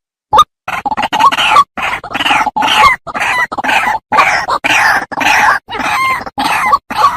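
White-breasted waterhen calling: two short spaced notes, then about a second in a dense, harsh run of rapidly repeated calls that goes on until near the end, when it breaks back into single notes.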